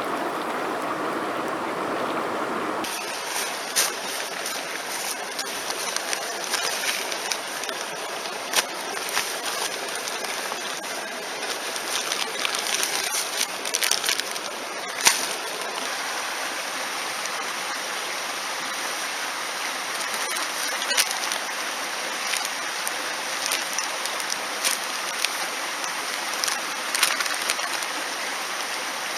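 Mountain stream rushing steadily. About three seconds in the sound changes abruptly to a brighter hiss, with scattered sharp clicks over it.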